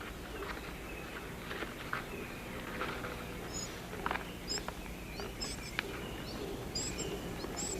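Rainforest ambience with a steady low background and scattered small rustles and clicks. From about a third of the way in, a bird gives short high chirps, again and again and more often near the end.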